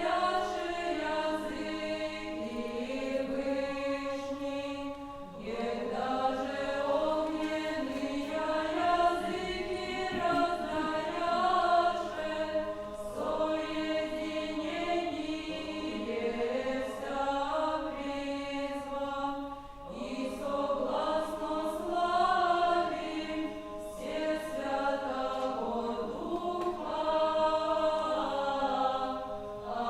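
A choir singing Old Russian chant, several voices moving in a melody over a steady low held note, with breaths between phrases about five and twenty seconds in.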